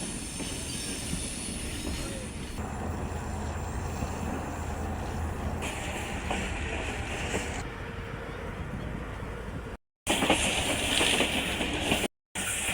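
Train running on rails, wheels clattering over the rail joints, in several short cut-together clips; the sound drops out briefly twice near the end.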